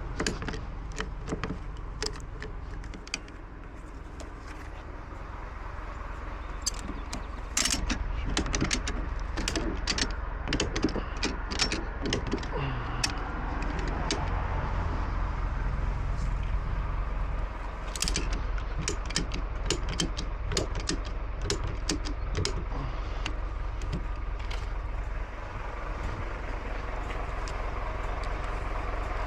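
Ratchet strap tensioners being cranked, clicking and creaking in runs of strokes, over a steady low rumble. The straps holding a load of timber are being re-tightened because they slackened as the wood settled during the first miles of driving.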